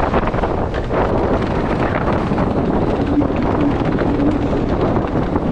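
Strong gale wind buffeting the microphone aboard a sailing yacht: a loud, steady rush.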